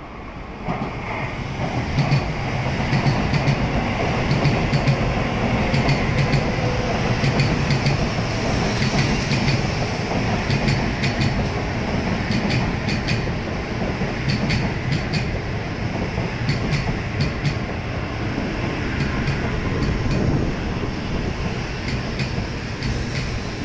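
N700-series Shinkansen train running past at low speed, a steady rumble with a low hum and many sharp clicks from the wheels over the rails, growing loud about a second in as the train reaches the platform end.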